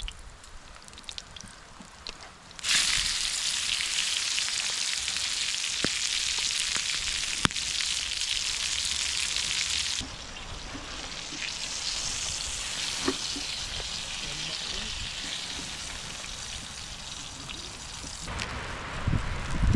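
Food sizzling over campfire coals. The sizzle starts suddenly about three seconds in, as the food goes onto the heat, and eases a little about halfway through. It drops away near the end.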